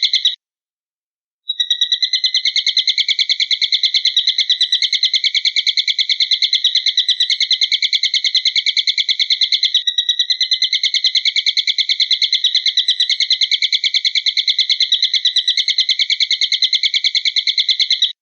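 Eagle call on a bird-training tape: a fast, unbroken series of sharp, high notes, many to the second. It breaks off for about a second near the start, then runs on steadily.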